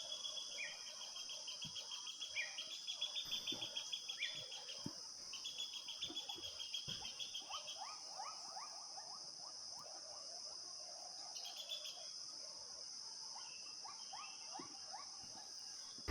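Faint forest ambience: a steady high insect drone, with a rapid pulsed cricket trill for the first few seconds. Later, short repeated calls, likely birds, come in a lower register.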